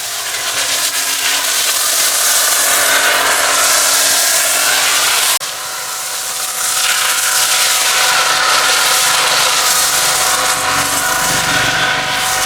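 High-pressure washer spraying water on a car: a loud, continuous hiss with a steady whine under it, broken off briefly about five seconds in.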